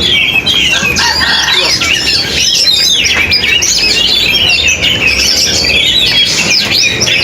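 Oriental magpie-robin (kacer) in full song: a fast, unbroken run of varied high whistles and chattering notes.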